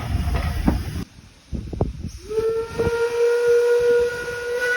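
A train running with a loud rumble and clicks, then, after a cut, a steam locomotive whistle sounding one long steady note from a little over two seconds in.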